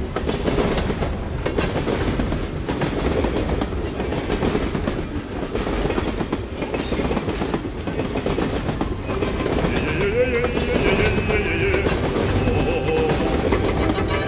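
Train running along the track: a steady rumble with the clickety-clack of wheels over the rails. Near the end a wavering high tone joins in.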